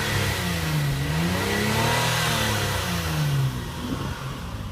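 2006 Hyundai Sonata's V6 revving through its stock exhaust, mufflers, resonator and catalytic converter still on, so it sounds subdued. The revs swell up to a peak about two seconds in, then fall back toward idle about three and a half seconds in.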